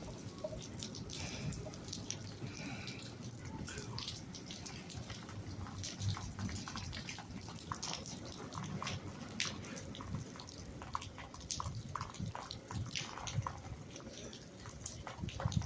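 Rain falling, with scattered, irregular drops tapping on nearby surfaces over a low, uneven rumble of wind on the microphone.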